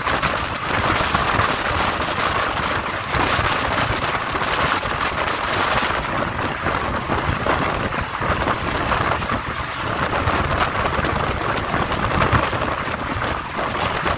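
Running noise of a moving Indian Railways passenger train, heard from its open window: a steady, dense rumble of wheels on rails mixed with the rush of air past the coach.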